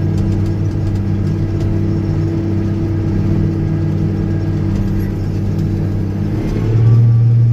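Old Steiger four-wheel-drive tractor's diesel engine running steadily. About six and a half seconds in, its note shifts and gets louder.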